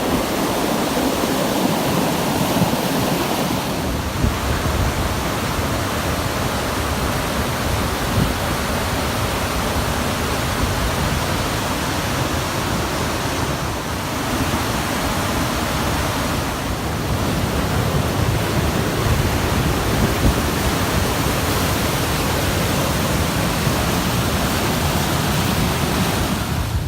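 Loud, steady rushing noise, even across all pitches and without a break or a distinct event.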